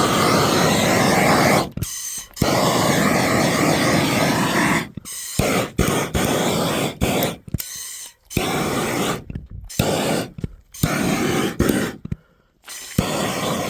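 Feathers being pulled from a goose by hand: rustling, tearing noise in long stretches at first, then in shorter strokes with brief pauses between them.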